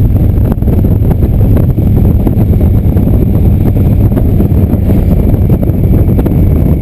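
Indian motorcycle riding at steady road speed: a constant low engine rumble mixed with wind buffeting on the microphone.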